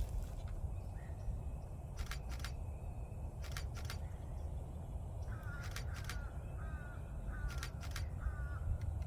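A bird's short call repeated five times, about once every three-quarters of a second, over four pairs of quick mechanical clicks from a DSLR's shutter and mirror (Canon Rebel T7).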